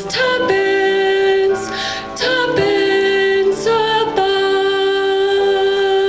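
A girl singing a slow solo song, sustaining long notes; from about four seconds in she holds one final note steadily.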